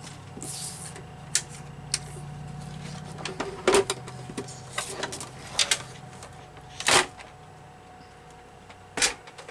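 Paper being cut on a sliding paper trimmer and handled: scattered sharp clicks and knocks, a few of them loud, over a low steady hum.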